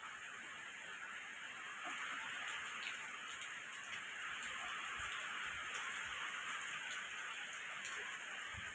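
Steady hiss of heavy rain falling during a storm, with a few faint low thumps.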